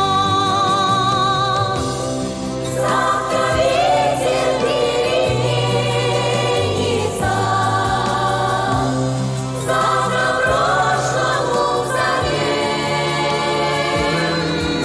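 Song music: a choir sings long, wavering notes over an instrumental accompaniment with a bass line that steps between held notes.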